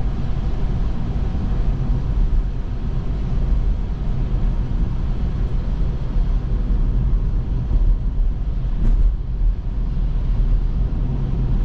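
Steady road and tyre rumble heard inside the cabin of a Tesla electric car on the move, with no engine note.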